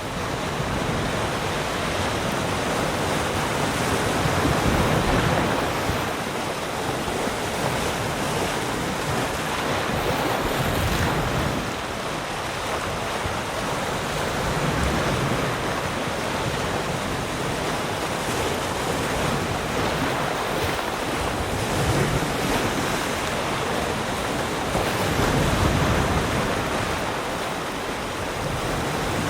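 Ocean surf: waves breaking and washing in, a continuous noise that swells and eases every five seconds or so.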